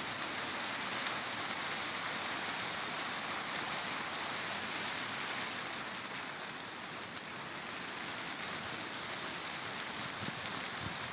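Steady hiss of heavy rain falling during a thunderstorm, with a couple of faint low thumps near the end.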